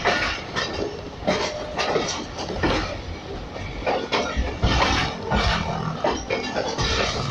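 Passenger train running along the track: wheels clattering over rail joints, with a steady rumble and irregular clanks and knocks.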